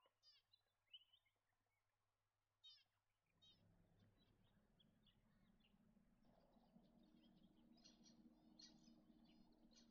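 Zebra finches giving their short, nasal, toy-trumpet-like calls over and over, with the calls growing busier in the second half. A low steady hum comes in about three seconds in.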